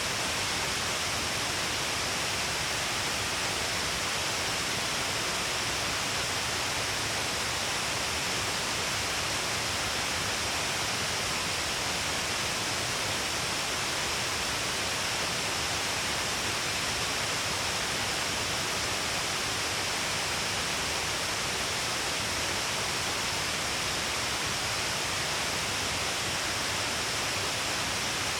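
Shiraito Falls: a wide curtain of many falls pouring down a cliff face, a steady, unbroken rush of falling water.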